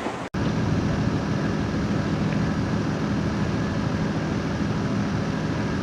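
Sailing yacht's inboard engine running steadily under a hiss of wind and water. It starts abruptly about a third of a second in.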